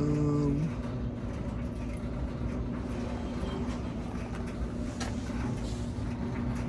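Steady low machine rumble with a constant hum. A brief pitched sound comes right at the start, and a faint knock about five seconds in.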